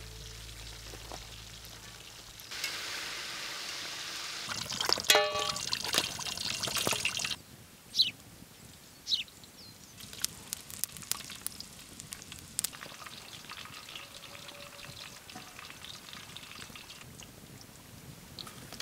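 Meat pastries sizzling as they fry in a cauldron of hot fat over an open fire: a loud, steady hiss with a brief pitched squeal about five seconds in, cut off abruptly a little past halfway. After that, a quieter stretch with scattered sharp clicks and crackles.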